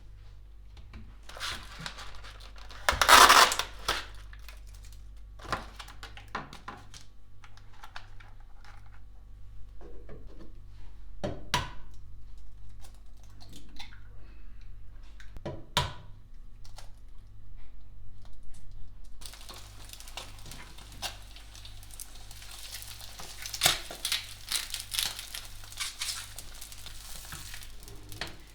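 Cooking preparation: packaging crinkling and tearing, with scattered clinks and knocks of dishes and utensils and a loud rustle about three seconds in. About two-thirds of the way through, a steady sizzle of food frying in a pan begins and keeps going.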